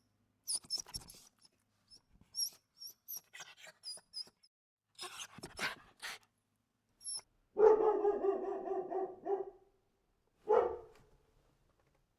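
Dog sound effect: a run of short, high-pitched yips and squeaks, then a longer drawn-out call about eight seconds in and a single bark a couple of seconds later.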